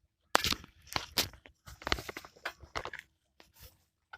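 Close, irregular crunching and crackling with rustling: a quick series of sharp clicks and crackles, loudest near the start, thinning out in the last second.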